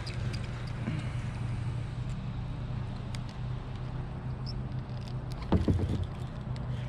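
A steady low motor hum, with scattered light clicks and a short louder low rumble about five and a half seconds in.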